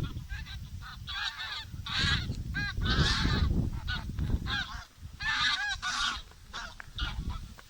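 A flock of Canada geese flying over, honking repeatedly, with many overlapping calls. Wind buffets the microphone underneath.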